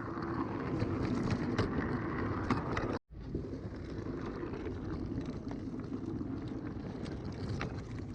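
Small wagon on a 5-inch gauge garden railway rolling along the track: a steady rumble of metal wheels with scattered sharp clicks. It cuts off abruptly about three seconds in and starts again.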